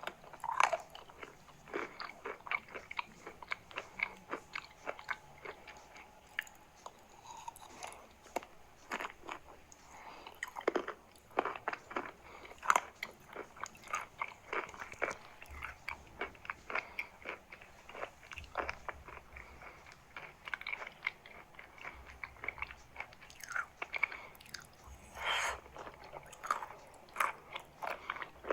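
Chalk being bitten and chewed close to the microphone: a dense, irregular run of crisp crunches, several a second, with a creamy, crumbly edge.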